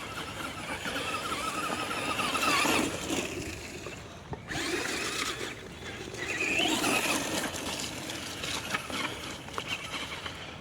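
Electric motor of a Traxxas Slash 2WD RC truck whining under throttle, its tyres spinning and slipping on wet grass. The motor rises in pitch and swells twice, about two and a half seconds in and again around seven seconds.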